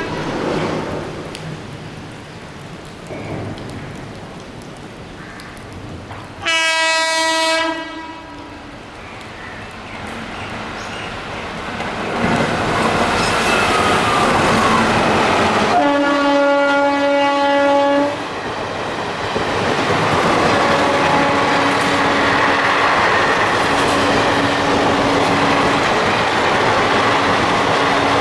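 An Indian Railways electric locomotive sounds two long horn blasts about nine seconds apart as it approaches at speed. The train then rushes past, its wheels clattering over the rail joints.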